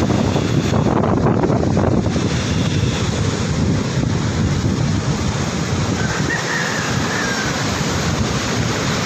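Sea surf washing in steadily, with wind buffeting the microphone. A faint short whistle sounds about two-thirds of the way through.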